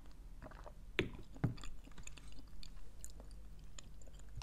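Quiet, close-up chewing and mouth sounds with a few small clicks. Two sharper knocks come about a second and a second and a half in.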